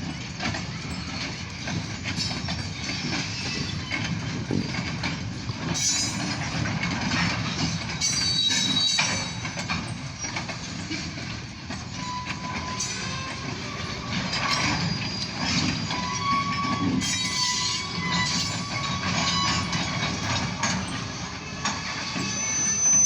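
Freight cars rolling past on the rails: a steady rumble with wheel clatter over the rail joints and brief high wheel squeals now and then.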